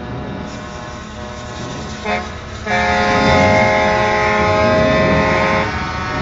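A truck's multi-tone air horn gives a short toot about two seconds in, then a long blast of about three seconds, over the low running of a Scania R620's V8 diesel engine.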